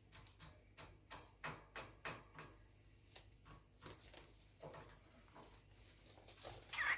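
Faint, irregular taps and clicks of a cockatiel moving about its cage, with one short chirp near the end.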